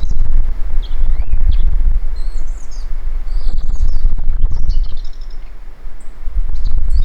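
Asian brown flycatcher singing a complex, jumbled twittering song of quick high notes, densest in the middle, that sounds like unintelligible chatter. Strong wind buffets the microphone with a heavy low rumble, louder than the bird.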